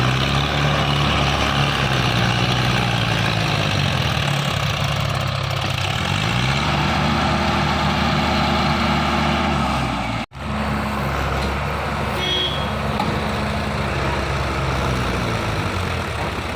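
Tractor engine running, its pitch sagging and then rising again as the revs change; the sound cuts out for an instant about two-thirds of the way through.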